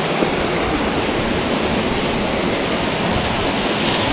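Rushing water in a canyon, a steady, even rush of noise, with a few faint clicks near the end.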